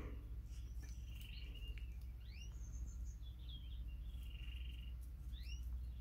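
Songbird calls: a quick rising chirp about every three seconds, with short buzzy trills between, over a steady low rumble.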